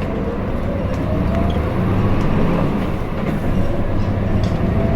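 Interior sound of a Hino Blue Ribbon City diesel city bus pulling away, its engine rumble growing louder and a drivetrain whine rising in pitch as it gathers speed.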